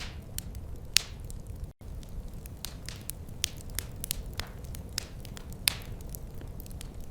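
Wood fire crackling: irregular sharp pops and snaps, two much louder ones about a second in and near six seconds in, over a steady low rumble of the burning fire. The sound drops out for a split second just under two seconds in.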